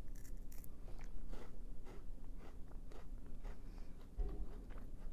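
Close-up crunching of a white chocolate Kit Kat's crisp wafer being bitten and chewed, a run of small irregular crackles.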